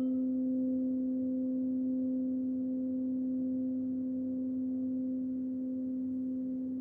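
Crystal singing bowl sounding one steady, sustained tone, with a fainter overtone about an octave above it.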